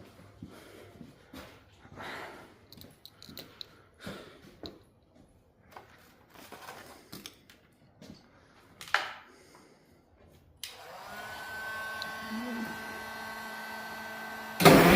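A few faint clicks and knocks, then about ten and a half seconds in a steady electric whirring starts as the International Harvester W-9's cold engine is cranked. Near the end it gives way to a much louder, rough, pulsing engine noise.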